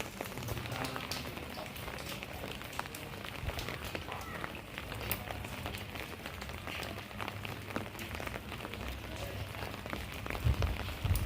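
Steady rain falling, with many small, sharp drop taps scattered through it. A low rumble comes up near the end.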